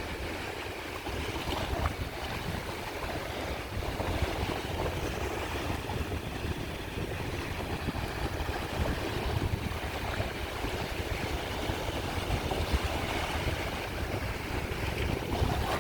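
Sea waves washing continuously onto a shore, with wind noise on the microphone.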